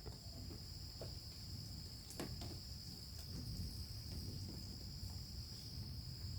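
Steady high-pitched insect chorus, one unbroken drone, over a faint low rumble with a few faint ticks.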